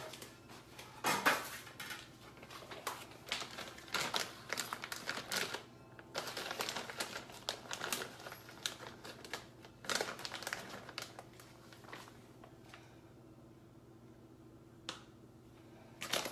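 Crinkling and rustling in irregular short bursts as shredded mozzarella is scooped out with a tablespoon and sprinkled over lasagna roll-ups, with light clicks of the spoon. The handling dies down about twelve seconds in, leaving a single sharp click near the end.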